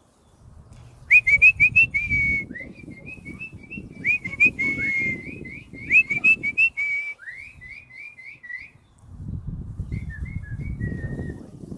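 A person whistling quick runs of short, high chirping notes, the follow-me whistle used to call puppies, in three bursts with sharp clicks at the start of some, over low rustling.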